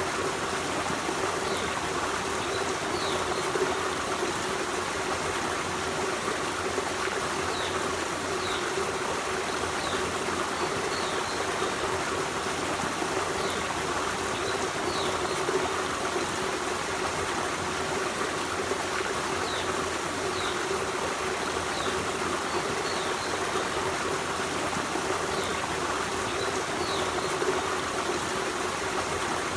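Forest stream running steadily over rocks, a continuous babbling rush of water. Faint short high chirps, likely birds, come now and then over the water.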